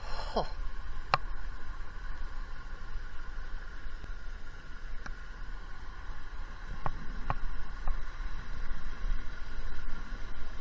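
Steady rush of a rain-swollen creek, with a low rumble beneath it. Near the start there is a short falling squeak, and a few sharp clicks come at intervals through the rest.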